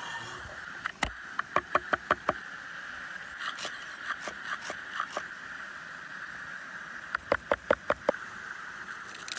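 Two quick runs of about six sharp knocks each, one about a second in and one about seven seconds in, with lighter taps between, over a steady hiss.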